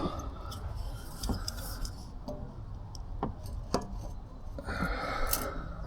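Scattered light clicks and taps of hands and a tool handling a tub of exhaust sealant at the exhaust pipe joint, with a short rubbing sound near the end.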